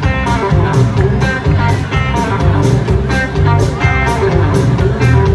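Live band playing an instrumental passage between sung lines: electric guitar over bass and drums keeping a steady beat.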